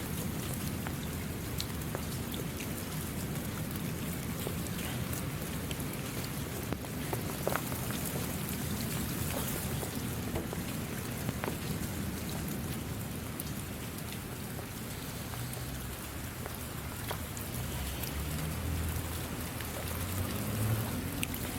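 Steady rain falling, an even hiss with many single drops ticking sharply here and there, over a low rumbling undertone.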